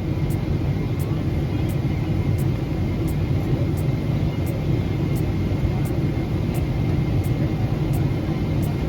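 Steady cabin noise of a Boeing 777 airliner in smooth cruise: a constant low rumble of engines and airflow, with a faint steady high tone.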